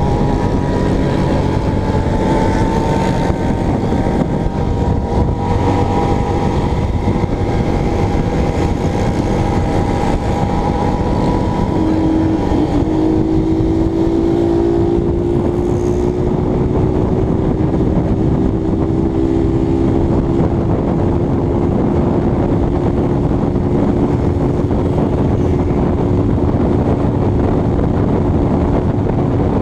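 Honda CBX250 Twister single-cylinder motorcycle riding at a steady cruise: the engine drones under a constant rush of wind on the microphone, its pitch drifting slowly, with a stronger, steadier engine note from about halfway through.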